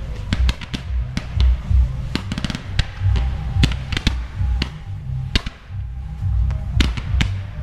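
Fireworks going off in a finale: a quick, irregular string of sharp bangs and crackles, a fast cluster of cracks about two and a half seconds in, over a continuous low rumble. Music plays along with them.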